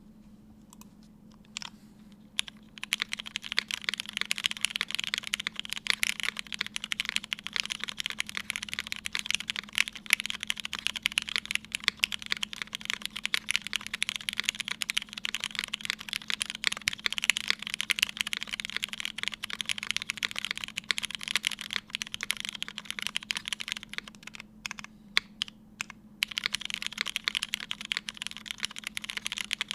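Typing on a Keycult No.1/60 mechanical keyboard with lubed Hyperglide Black linear switches, an aluminium plate and GMK keycaps. A few single keystrokes, then a fast, steady stream of keystrokes from about three seconds in, with a short pause of scattered strokes near the end before typing picks up again.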